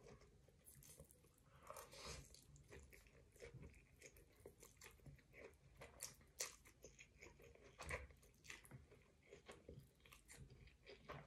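Faint close-up chewing: a person eating a meal of spaghetti, sausage and grated vegetable salad, with irregular small wet clicks and soft crunches.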